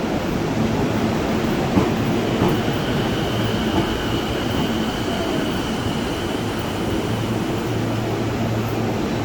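JR East E233-1000 series electric train at a station platform: a steady low hum and rumble, with a thin high whine held for a few seconds in the middle.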